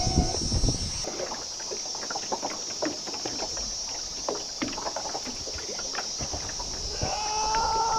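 Irregular light knocks and water splashes around a small boat, over a steady high-pitched drone. A voice starts calling out near the end.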